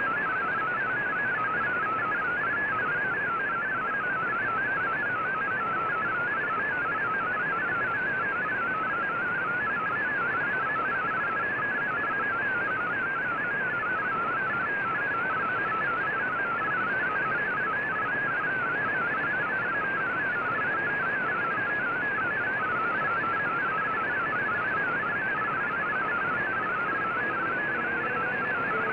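Shortwave radio receiver playing a VOA Radiogram MFSK digital-mode data signal: a fast, steady warble of tones hopping up and down within a narrow band, over constant shortwave hiss.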